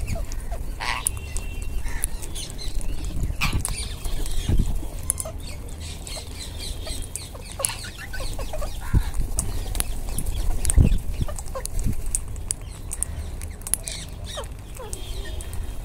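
Wild Indian ringneck parakeets feeding, with short scattered calls and clicks throughout.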